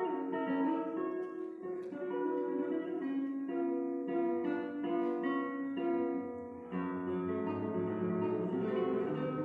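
Solo classical guitar played in tremolo, rapid repeated treble notes over a moving bass line, with a brief dip before a new phrase begins about two thirds of the way through.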